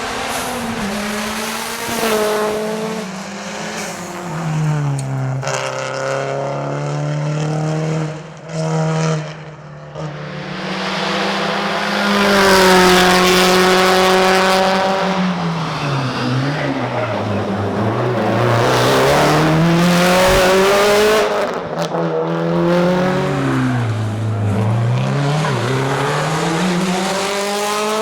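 Subaru Impreza WRX STI S204's turbocharged flat-four engine driven hard on a tarmac rally stage. The revs climb and fall again and again through gear changes and corners. They drop away briefly about eight seconds in, then pick up and pull hard for the rest of the run.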